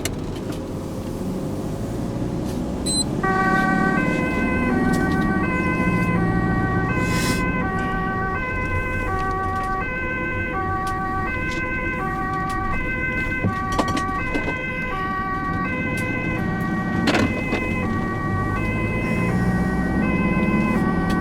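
Ambulance two-tone siren, alternating high and low notes about every three-quarters of a second, switched on about three seconds in, over the vehicle's engine and road noise.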